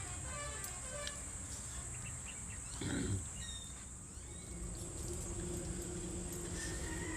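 Steady high-pitched drone of insects, with one short, louder low sound about three seconds in.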